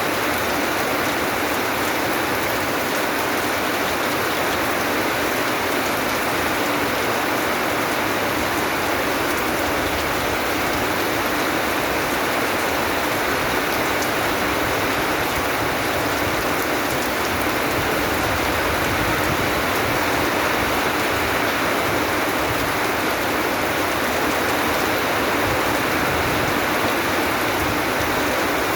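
Steady, continuous rain falling, with no breaks or changes in level.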